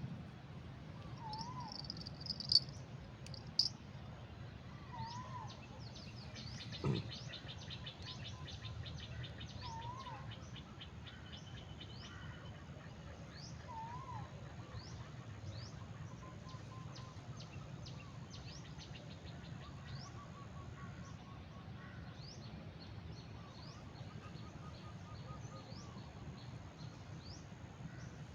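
Birds calling outdoors: short high rising chirps repeating throughout, a zigzag two-note call about every four seconds, and rapid trills in the middle, over a steady low background rumble. Two sharp clicks come about two and a half and three and a half seconds in, and a dull thump about seven seconds in.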